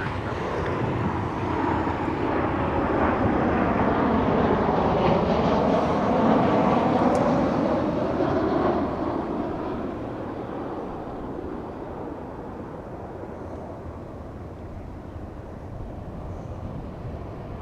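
Boeing 737-800 jet airliner passing by as it comes in to land, its turbofan engine noise swelling to a peak about six to eight seconds in with a sweeping, phasing whoosh, then fading away.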